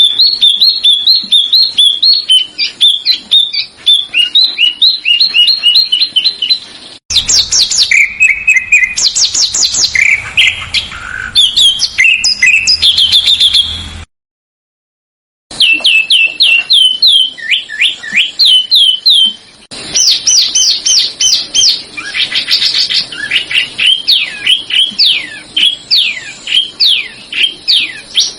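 Recorded small songbirds singing, used as masteran for training songbirds: fast runs of repeated high chirps and downward-slurred whistled notes. Several different recordings are spliced together, changing abruptly twice, with a short gap of silence about halfway through.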